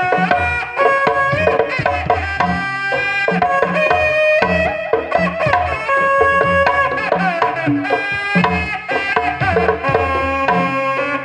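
Recorded music with hand-drum percussion and a bright melodic lead, played through a PA sound system of a QSC KW118 powered subwoofer and RCF monitor speakers, with strong, regular bass drum beats in the low end.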